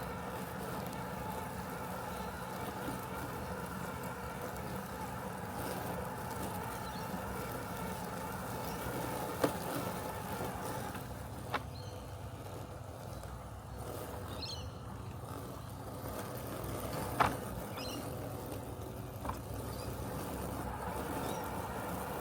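Robotic lawn mower running with a steady mechanical hum, several constant tones over a low drone. A few short sharp clicks cut through it, the loudest about nine and seventeen seconds in.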